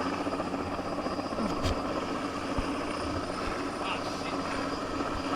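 Helicopter running steadily, its rotor and turbine making a continuous drone.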